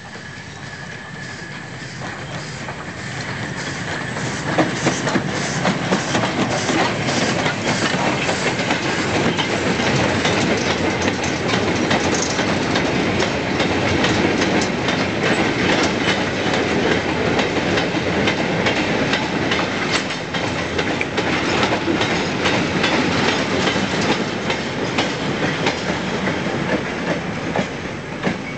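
Goods train of 16-ton steel mineral wagons behind Robinson 2-8-0 steam locomotive No. 63601 rolling past, wheels clattering over the rail joints in a dense clickety-clack. It grows louder over the first few seconds as the train closes in, stays steady as the wagons pass, and eases near the end as the brake van goes by.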